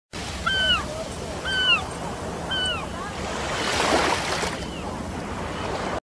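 A bird calling three times, about once a second, each call a short note that rises and then falls. Beneath the calls runs a steady rushing wash that swells about four seconds in.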